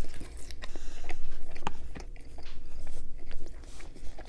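Close-miked biting into and chewing a slice of Pizza Hut pepperoni and cheese pizza, with many small crackles and clicks of the mouth and crust throughout.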